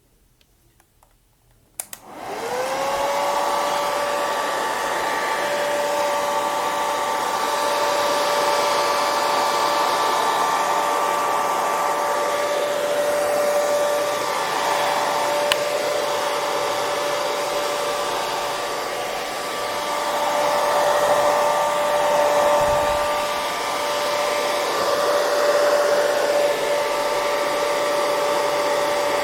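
Hair dryer silent for about two seconds, then switched on with a click. Its motor whine rises quickly to a steady pitch, and it runs steadily with a constant rush of air.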